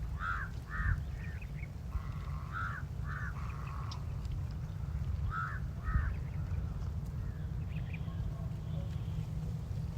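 Birds calling: short harsh calls, mostly in pairs, about three times in the first six seconds, over a steady low rumble.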